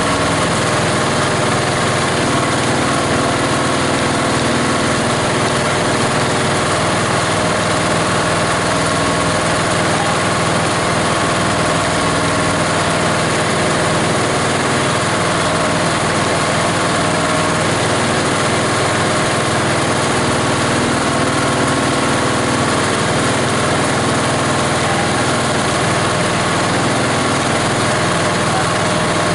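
The grinder's 18 HP diesel engine running steadily, driving the multi-blade grinding mechanism, with a constant loud machine hum and no breaks or changes in speed.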